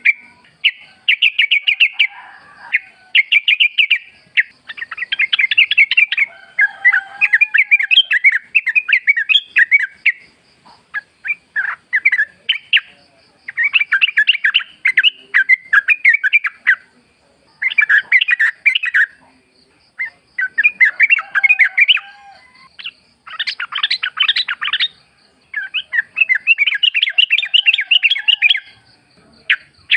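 Yellow-vented bulbul (trucukan) singing: a run of bubbly, chattering phrases of one to two seconds each, separated by short pauses, with a faint steady high tone behind.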